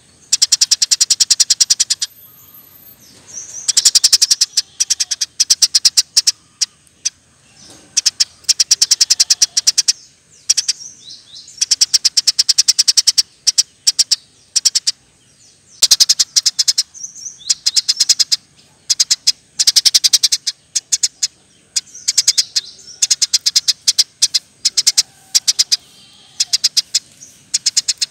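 Eurasian tree sparrow calling in rapid-fire trains of sharp chirps, each burst lasting a second or two and repeated about a dozen times with short pauses between.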